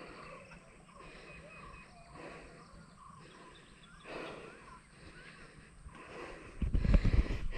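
Faint birds calling in the background, with low wind rumble buffeting the microphone near the end.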